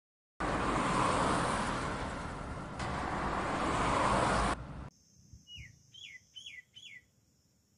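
A loud, even rushing noise starts abruptly and cuts off about four and a half seconds in. Then a bird gives four quick chirps, each falling in pitch, over a faint, steady high hiss.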